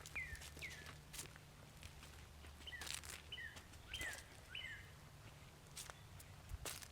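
A songbird calling a run of short notes, each sliding quickly down in pitch, in two bouts of four or five notes, with scattered faint footsteps.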